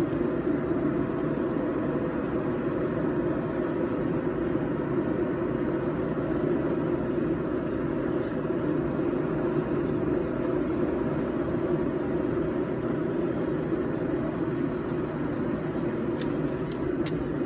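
Forge running with a steady, even rushing noise, no hammer blows; a few faint clicks near the end.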